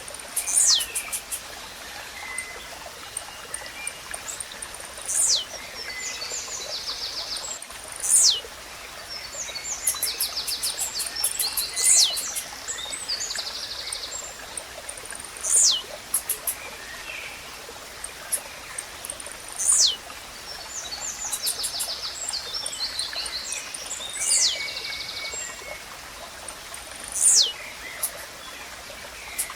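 Blue-black grassquit (tizil) repeating its short, sharp downslurred song note about every three to four seconds. Rapid trilled chatter from other birds and a steady trickling stream run behind it.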